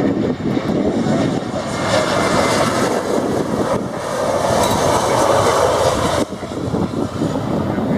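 Airbus A320-214 jet airliner's engines on landing, a steady jet noise that swells about two seconds in and drops away suddenly a little after six seconds.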